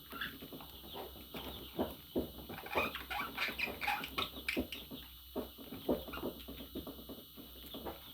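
Pet budgerigars chattering: a quick run of chirps, clicks and short warbles, busiest in the middle.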